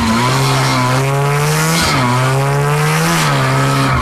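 Small pull-started engine with a resonator exhaust running hard under throttle. Its pitch climbs slowly, dips sharply twice, and drops near the end.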